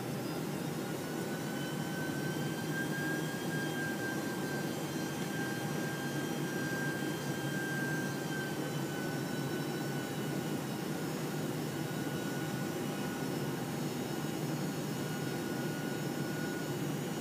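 Boeing 747-400 cabin noise on approach: a steady rumble of airflow and jet engines, with thin engine whines above it that rise slightly in pitch a couple of seconds in and ease back down about halfway through.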